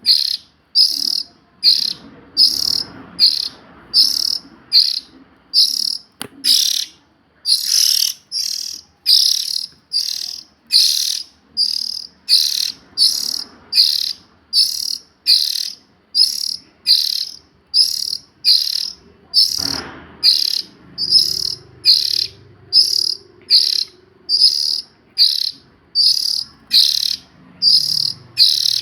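Young Oriental magpie-robin's call, a short high call repeated steadily, about four calls every three seconds.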